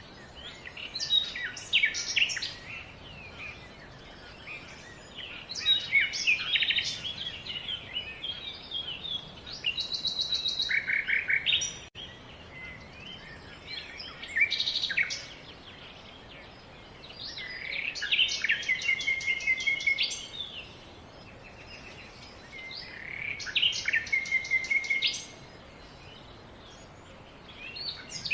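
Songbird singing: short, varied phrases with fast trills, each a second or two long and repeated every few seconds.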